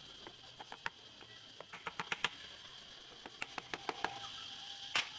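Irregular sharp clicks and taps, a dozen or more, from small parts and hand tools being handled during engine work, the loudest near the end, over a faint steady high-pitched tone.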